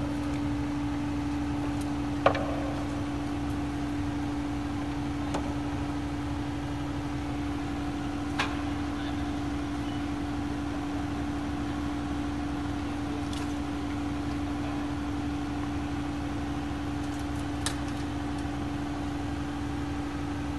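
Excavator's diesel engine running steadily at a constant pitch, with a few sharp metallic knocks, the loudest about two seconds in.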